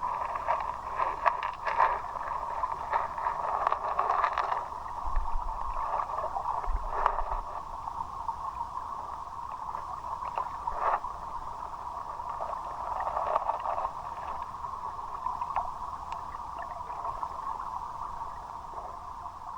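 Flowing river water with a steady rush, broken by short splashes and knocks, most of them in the first few seconds.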